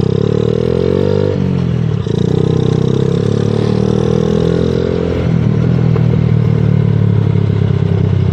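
Small 70cc motorcycle engine with a noisy exhaust, revving up under acceleration, dropping at a gear change just over a second in, then climbing slowly again and changing pitch once more about five seconds in before holding steady. Wind rushes over the microphone throughout.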